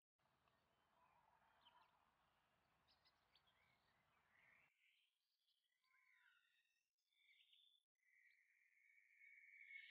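Near silence: a faint hiss for the first half, then a few faint bird chirps and one longer held whistle near the end.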